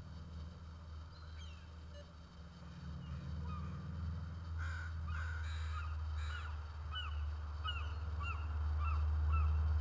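A bird calling over and over in short, similar calls about two a second, starting around the middle, over a low steady outdoor rumble.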